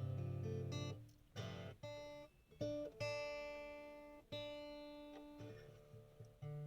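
Acoustic guitar strumming chords, each chord struck sharply and left to ring and fade before the next.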